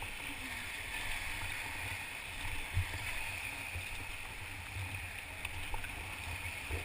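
Steady rushing and gurgling of river water around a raft, with a few faint knocks.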